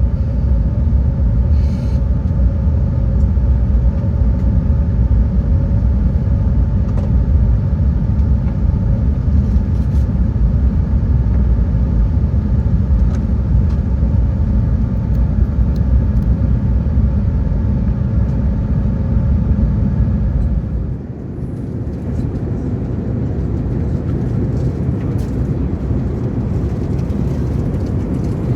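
Airbus A380 cabin noise: a loud, steady low rumble from the engines and airframe with faint steady engine tones above it. About two-thirds of the way through, the rumble drops off suddenly and turns into a quieter, different hum.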